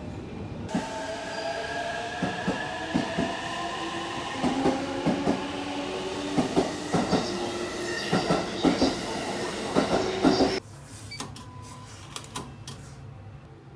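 Electric commuter train pulling out of the platform: a motor whine slowly rising in pitch over the rumble, with repeated clacks of the wheels over rail joints. It cuts off suddenly about ten and a half seconds in, leaving a quieter background with a few light clicks.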